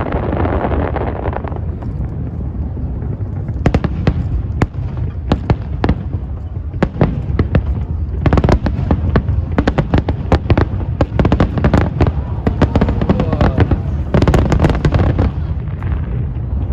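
A fireworks display going off: rapid volleys of sharp cracks and bangs over a steady low rumble, the crackling bunching into dense barrages in the middle and again near the end.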